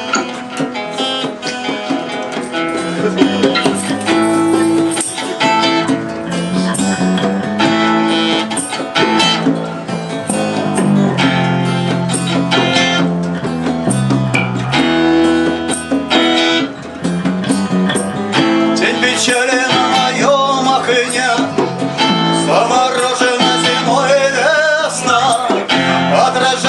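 Live rock band playing a song's instrumental introduction, with plucked guitar prominent. A wavering melodic line comes in over it for the last several seconds.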